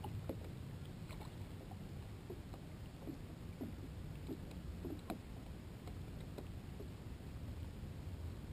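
Water dripping and lapping around a kayak, with scattered light knocks and a sharp click about five seconds in, over a steady low rumble of wind on the microphone.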